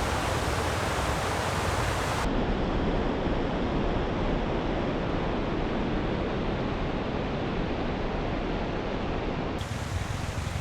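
Steady rushing noise with no clear pitch, turning duller about two seconds in and brighter again near the end.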